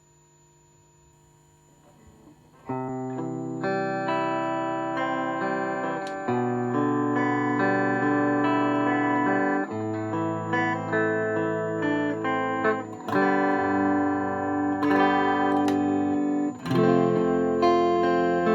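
Electric guitar played through distortion, its tremolo block weighted with cast metal for longer sustain. Faint amplifier hum at first, then sustained distorted chords and notes begin about three seconds in.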